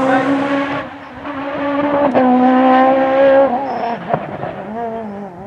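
Peugeot 306 Maxi rally car's four-cylinder engine held at high revs, easing off briefly about a second in and then back up to the same high revs, before dropping to lower, uneven revs near the end, with a sharp crack about two seconds in and another about four seconds in.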